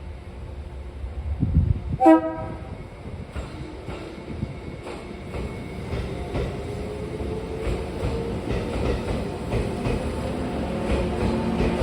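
A train gives a short horn blast about two seconds in, then runs on with wheel clatter and a slowly rising motor tone.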